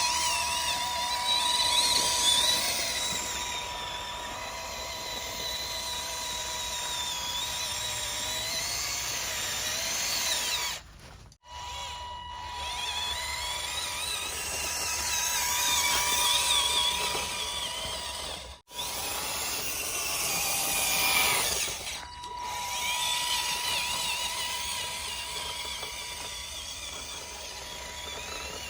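Small electric gear motors of a handmade RC model tractor running, a drill-like whine that wavers in pitch as the speed changes. The sound cuts out abruptly twice along the way.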